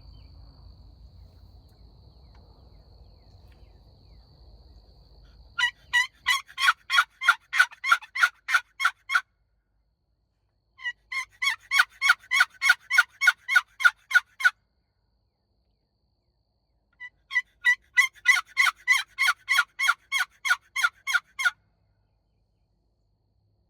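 Hunter's turkey call being worked to blind call: three runs of yelps, each a string of a dozen or more sharp, evenly spaced notes at about four a second, with short pauses between runs. The first run starts about six seconds in.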